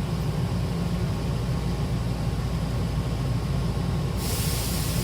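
Hankyu train's steady low hum, with a sudden hiss of released compressed air starting about four seconds in.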